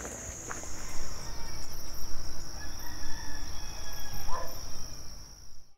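Rural night ambience: a steady high insect trill runs throughout, and a rough, uneven rumbling noise comes in about a second in. A short animal call sounds about four seconds in, and everything cuts off abruptly at the end.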